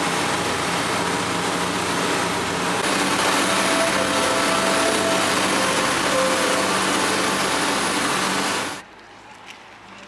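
Tour boat's engine running with a steady low hum under loud, even wind and water noise. The sound cuts off suddenly near the end, leaving a quiet background with a few faint clicks.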